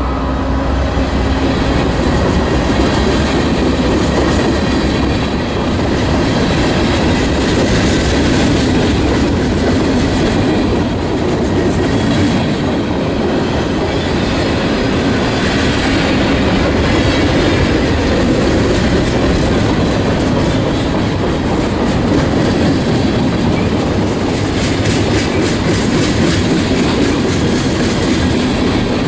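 Freight train cars, covered hoppers and tank cars, rolling past close by: a steady loud rumble and rattle of steel wheels on rail with clickety-clack over the rail joints. The lead locomotive's engine hum fades out in the first second.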